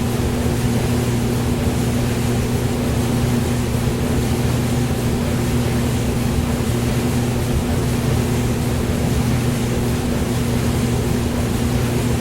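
Hair dryer running steadily, used as white noise: a constant rush of air over a low, even motor hum that does not change.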